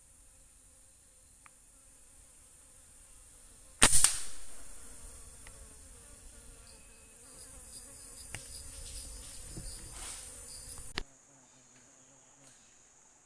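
A single shot from a PCP air rifle, a sharp crack about four seconds in that dies away over about a second, over a steady high drone of forest insects. Later a few seconds of louder noise build up and cut off abruptly.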